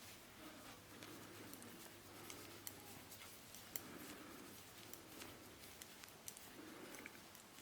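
Knitting needles clicking faintly and irregularly as stitches are purled across a row.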